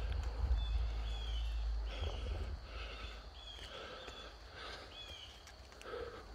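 A bird calling over and over in short, arching high notes, roughly one every half second to a second, over a steady low rumble on the microphone.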